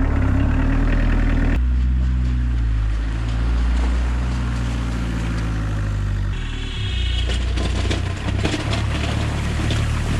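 Diesel engine of a homemade 4x4 UTV running steadily, its note shifting abruptly about a second and a half in and again past the middle, with a few clicks and a brief high whine in the second half.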